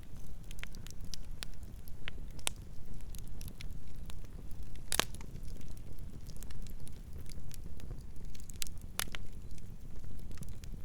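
Wood campfire burning, with a steady low rumble and frequent sharp crackles and pops at irregular intervals, the loudest pop about halfway through.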